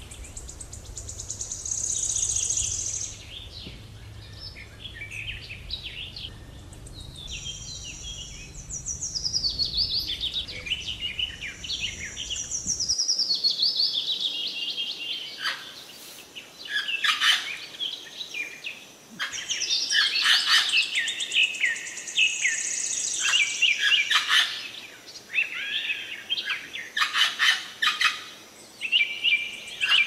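Birds chirping and calling, with many short high notes and trills. A steady low background rumble cuts off suddenly about 13 seconds in; after that, louder, harsher calls come in quick runs.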